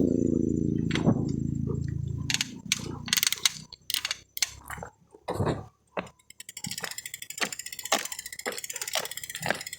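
A motorcycle engine fades away over the first two seconds, then come a few scattered clicks and knocks. From about six seconds in, frogs call in a fast, pulsing chorus with regular louder croaks.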